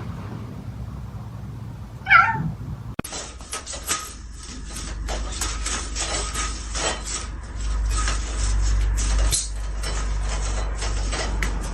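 A domestic cat meows once, a short falling call, about two seconds in. From about three seconds on, a busy run of clicks and rustles over a low rumble.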